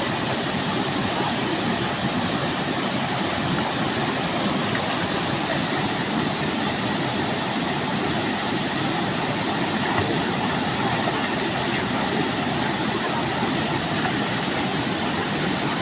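Steady rush of water falling at a waterfall.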